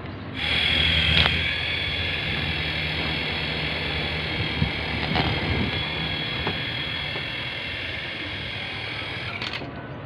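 Small remote-control toy helicopter's electric motor and rotors running with a steady high whine over a low whir.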